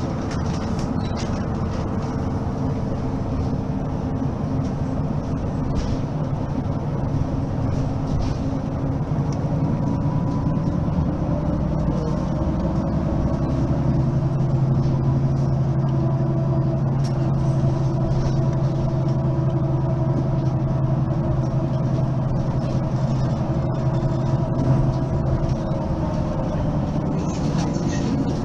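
Mercedes-Benz Citaro facelift city bus's diesel engine running steadily. About halfway through, the engine note steps up and grows slightly louder, then holds.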